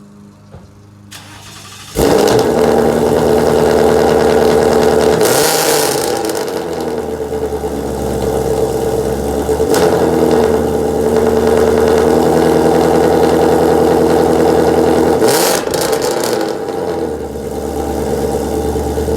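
S550 Mustang GT's 5.0 V8 with catless long-tube headers and a Ford Performance by Borla catback, starting up with a sudden loud bark about two seconds in, then running loud and rough, swelling briefly twice.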